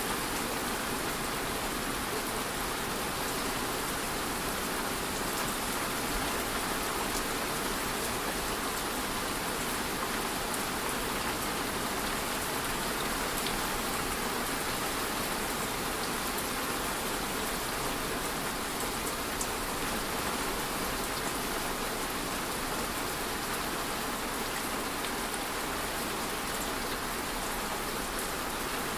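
Steady rain falling, an even hiss with fine droplet patter throughout.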